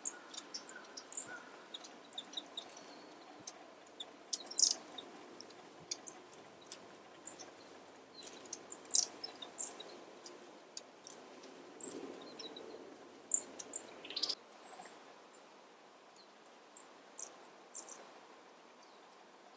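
Small wild birds calling: many short, high-pitched chips and thin notes scattered irregularly, over a soft outdoor hiss.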